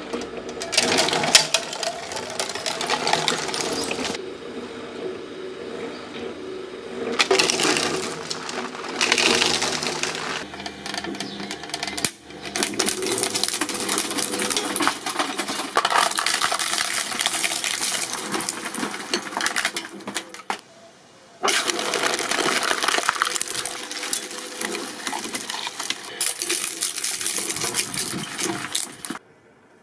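Press machine at work, a steady motor hum under metallic clinking and crackling as objects are pressed. The sound changes abruptly several times as short clips cut from one to the next.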